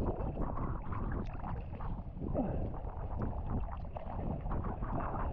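Strong wind buffeting the action camera's microphone in a continuous, irregular low rumble, with North Sea waves washing against the rocks.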